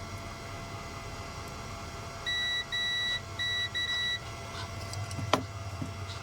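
Four electronic beeps from repair-bench equipment, one steady pitch, the first two longer and the last two shorter and uneven, about two seconds in. A single sharp click follows near the end, over a steady low hum.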